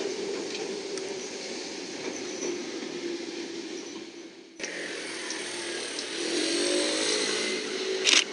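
Electric commuter train running over a steel river bridge, a steady buzzing rumble that breaks off abruptly about halfway through. Train running noise picks up again with a few rising tones, and a sharp crack comes just before the end.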